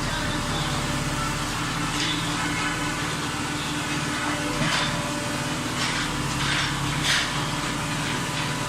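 An automatic baler running, with the steady hum of its motor and hydraulic pump. A few short clattering sounds come over it from about two seconds in.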